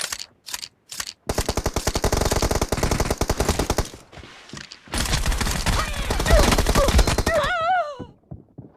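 Video game automatic gunfire: rapid shots fired in two long bursts with a short pause between. A brief wavering cry is heard near the end.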